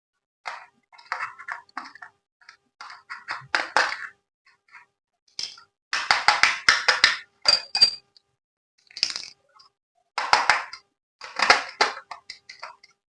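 Toy packaging being handled: irregular bursts of crackling and clicks, with short silent gaps between them.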